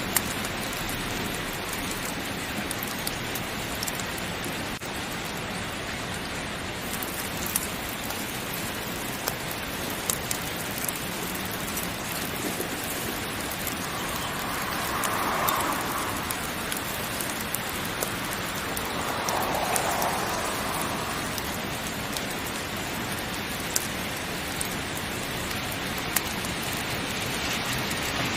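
Heavy rain falling steadily, a dense even hiss with scattered sharp ticks and pops. It swells softly twice about halfway through.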